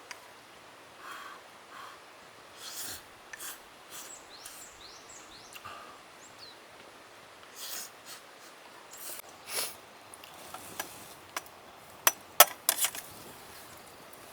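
Eating sounds: light clicks, taps and scrapes of utensils against a dish or pan, with a few sharper clicks near the end.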